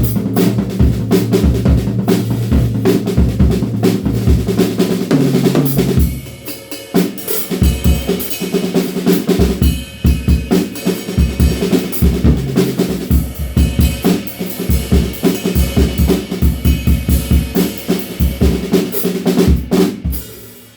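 DW Frequent Flyer drum kit played as a full groove: bass drum, snare and toms with cymbals. The first six seconds are loudest, with drum ring sustaining under the hits; then the playing continues a little lighter and stops right at the end.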